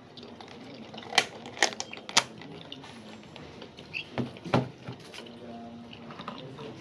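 Sharp knocks: three about half a second apart, starting about a second in, then a few more about four to four and a half seconds in, over a low background.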